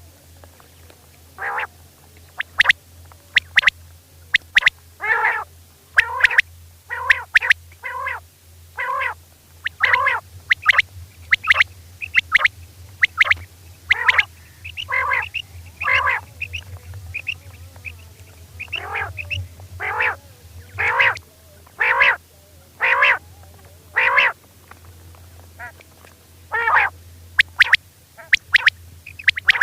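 Female common quail calling, a run of short harsh 'kirk' notes repeated about once a second, of the kind played as a hunting lure. A steady low hum sits beneath.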